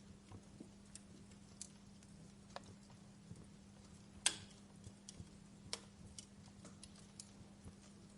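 Wood fire in a fireplace crackling softly: scattered irregular snaps and pops, with one sharper pop about four seconds in and another a little before six seconds.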